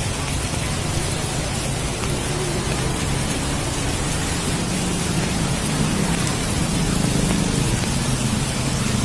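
Steady hiss and rush of heavy rain and storm wind during a tornado, with a faint low hum underneath.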